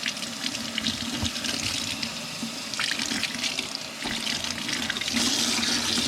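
Tap water running and splashing in a sink as parts of an LG A9 cordless vacuum are rinsed under it. The flow grows louder about five seconds in.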